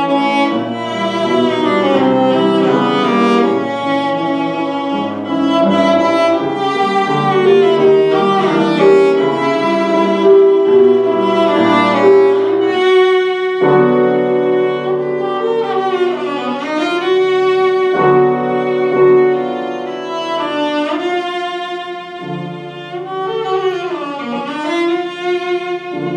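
A bowed string instrument playing a slow, sustained melody with vibrato, accompanied by piano.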